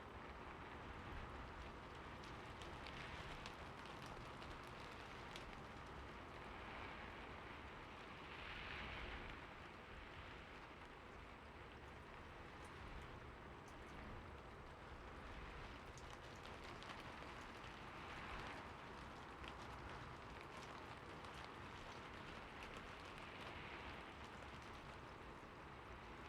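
Steady rain falling, a soft even hiss with individual drops ticking through it, swelling briefly a few times.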